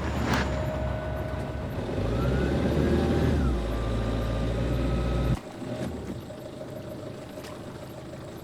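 A boat's engine running with a steady low drone and a brief whine rising and falling over it. About five seconds in the sound drops suddenly to a quieter steady hum.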